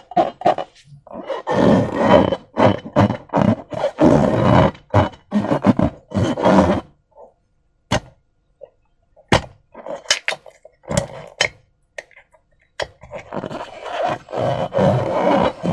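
Slime squelching and squishing as it is squeezed and worked by hand, in irregular wet bursts. A sparser stretch of a few sharp clicks and pops comes in the middle.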